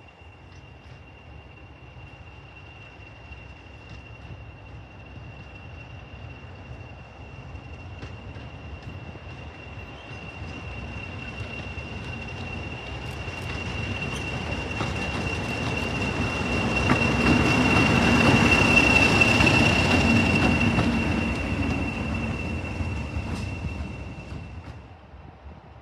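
A diesel-hauled train approaches, passes and draws away: a low rumble builds to its loudest about three-quarters of the way through, then fades. A steady high whine carries on over it until near the end.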